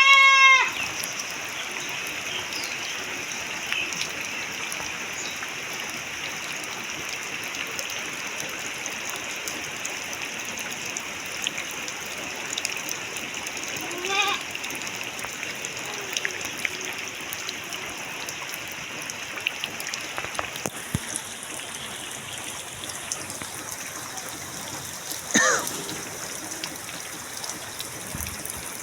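Heavy rain falling steadily. A loud, short call rising in pitch sounds right at the start, and two fainter calls come about 14 and 25 seconds in.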